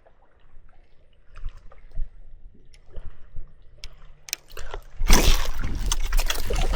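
Quiet small water sounds and light knocks, then a sudden louder stretch of water splashing and sloshing from about five seconds in.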